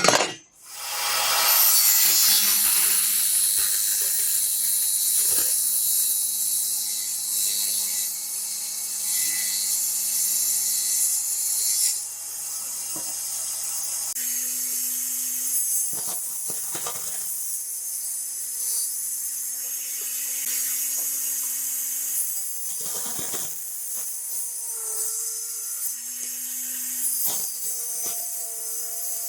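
Small power tool running against a workpiece: a loud scraping hiss over a steady motor hum. The tool's sound shifts about twelve seconds in and again about two seconds later, with a few short knocks near the end.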